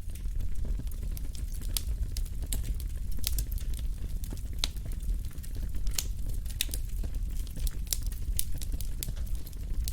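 Wood fire burning in a fireplace: a steady low rumble of flames with irregular sharp pops and crackles of burning logs.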